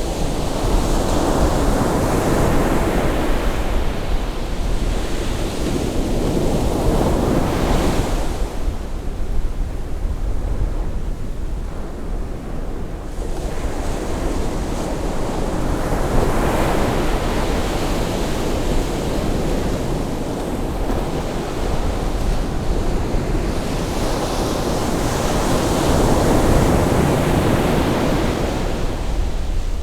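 Ocean surf at a rising tide: waves breaking and washing in, swelling and fading in long surges several seconds apart.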